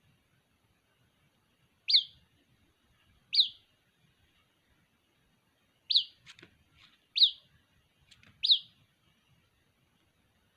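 White-breasted waterhen (ruak-ruak) chick calling for its parent: five short, sharp peeps, each falling steeply in pitch, about one to two and a half seconds apart.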